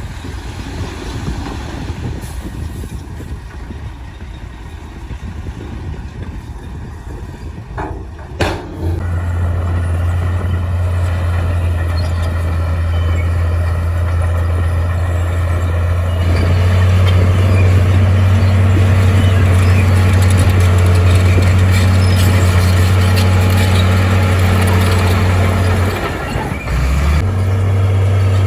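Heavy diesel engine of earthmoving machinery running: a rough low rumble at first, then, after a sharp knock about eight seconds in, a steady loud engine drone. The drone gets louder about halfway through and briefly falters near the end before settling back.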